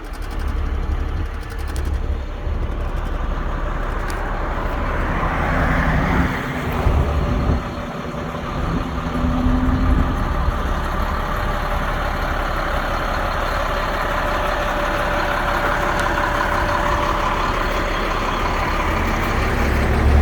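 Cat C7 diesel engine of a 2004 Sterling truck idling steadily, a continuous low rumble. A broader noise builds over it about five seconds in and eases near the end.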